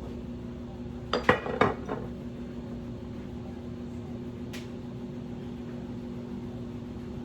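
Kitchenware clinking as jars and lids are handled: a quick cluster of clinks about a second in and one more click a few seconds later, over a steady low hum.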